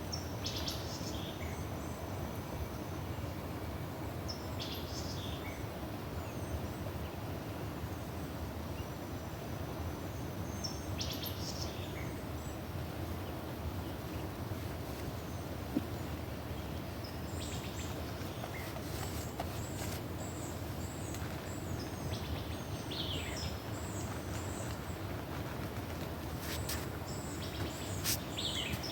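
Birds chirping now and then, short high calls every few seconds, over a steady low outdoor rush.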